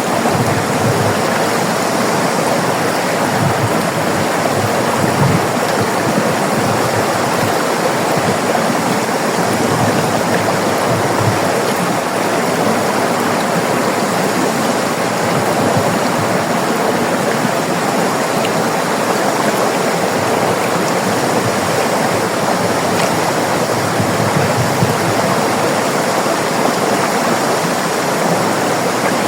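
River water running over rocks, a steady full rushing with no breaks.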